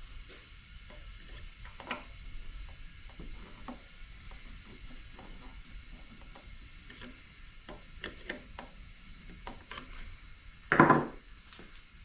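Hand tools scraping and clicking at a recessed screw on a pancake air compressor's cover, picking at the debris jammed in it, with one louder knock near the end.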